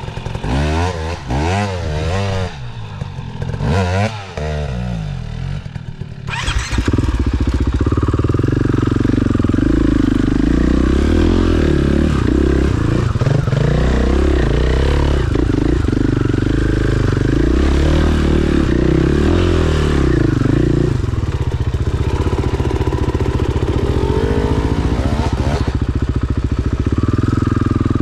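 KTM 500 EXC-F single-cylinder four-stroke dirt bike engine, revved up and down in short blips for the first several seconds, then running loud and hard under sustained throttle from about seven seconds in.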